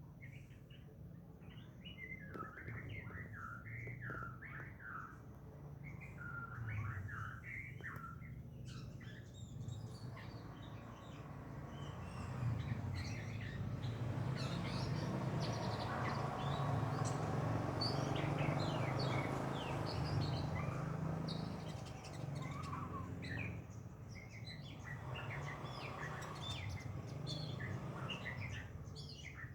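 Small wild birds chirping in quick, repeated short calls. A broad rushing noise swells through the middle and fades again, over a steady low hum.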